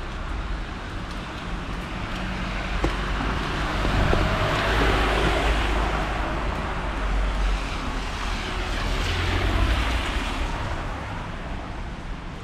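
Cars passing on a wet street, their tyres hissing on the rain-soaked road; the hiss swells twice as vehicles go by, over the steady patter of rain.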